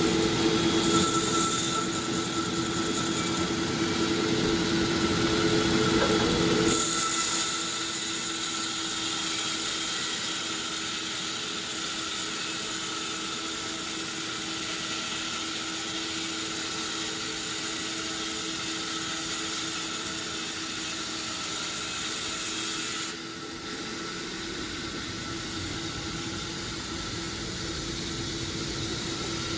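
Sawmill machinery running with a steady mechanical hum. A high-pitched whine joins about a quarter of the way in and cuts off suddenly about three-quarters through, where the sound drops in level.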